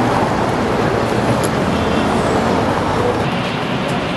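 Steady running noise of a moving vehicle.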